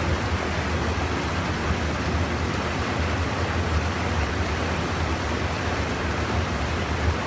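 Steady rushing of river water spilling over a small sabo dam weir, an even wash of noise with a low rumble underneath.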